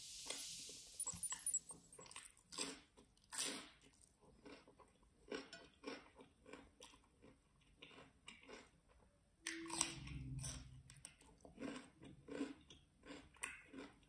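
Close-miked eating of crisp cucumber slices and rice by hand: a loud crackling crunch at first, then a run of short wet crunches and mouth clicks as it is chewed, with a brief low hum about ten seconds in.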